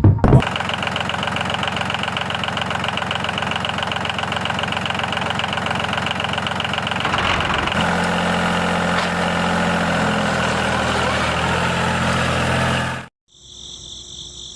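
A small engine running steadily with a fast, even pulsing. Its note changes about halfway through, and it cuts off suddenly near the end, leaving faint high chirping like crickets.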